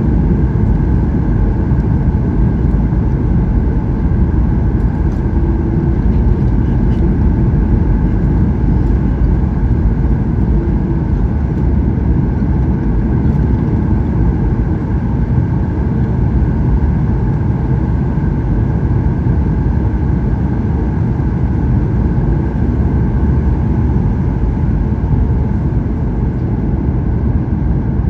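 Steady in-flight cabin noise of a Boeing 737-800 heard from a window seat: an even, deep rush of airflow and engine noise with a faint steady hum above it.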